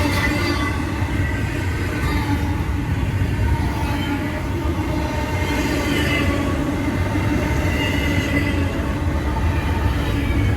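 Fast intermodal freight train rolling past: a steady, heavy rumble of steel wheels on rail, with faint high ringing from the wheels.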